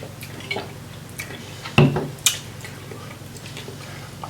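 Close-up eating sounds of a seafood boil: wet chewing and smacking with scattered small clicks, a louder knock just before two seconds in and a sharp click soon after, over a steady low hum.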